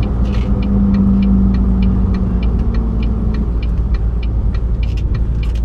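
Cab noise of a heavily loaded semi-truck driving on a rough highway: steady low road and engine rumble with a drone that fades out about three seconds in, and a light, regular ticking.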